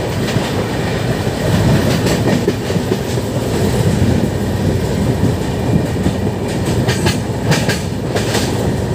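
Moving express passenger coach heard from its open doorway: a steady rumble of wheels on the track, with a quick run of sharp clicks over rail joints near the end.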